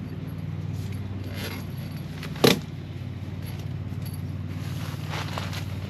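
A single sharp knock about halfway through, with some fainter rattling and scraping of gear being handled, over a steady low mechanical hum.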